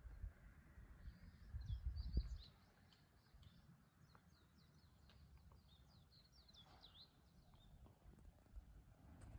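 Faint songbird chirping, a long run of short quick high notes. A gust of wind buffets the microphone with a low rumble about two seconds in.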